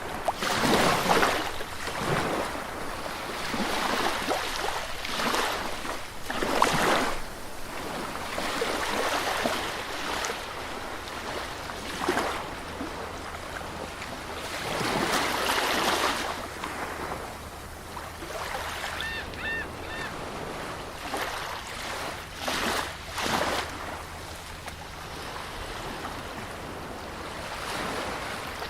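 Sea surf washing onto a beach, the waves breaking and receding in irregular swells every couple of seconds.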